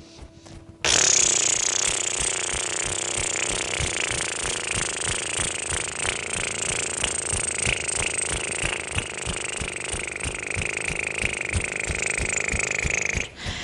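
A person fluttering the lips on one long exhale, a rapid lip trill that starts about a second in after a quiet inhale and lasts about twelve seconds. It is done as a face-relaxing breath exercise.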